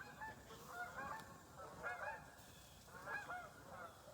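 A flock of Canada geese honking as they fly overhead, many overlapping calls coming in clusters about once a second.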